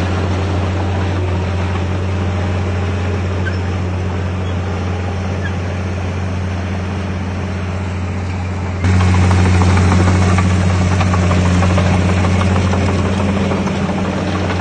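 Komatsu D51PX bulldozer's diesel engine running steadily with a deep hum, stepping up suddenly louder about nine seconds in.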